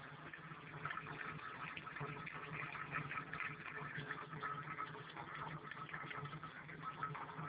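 Water dripping and trickling from split tubing through the hollow cans of a home-made Kelvin water drop generator into the cans below, a steady irregular patter of drops.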